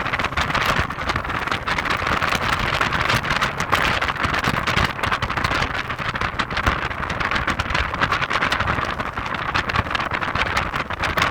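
Heavy wind buffeting on the microphone during a drive in an Audi TT: a steady rushing noise with constant crackling gusts, over the car's road noise.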